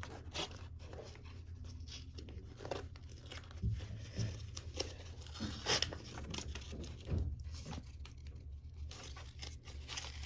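Paper backing being peeled off the adhesive side of a sheet of skateboard grip tape: irregular crackling and tearing, with a few louder crackles around the middle, over a steady low hum.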